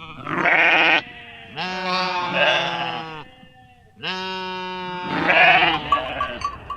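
Sheep bleating: several wavering calls one after another, the longest and loudest about two-thirds of the way through.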